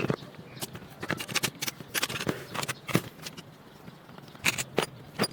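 Irregular clicks, knocks and scrapes of AK rifle parts being handled and worked on, with sharper knocks about three seconds in and again near the end.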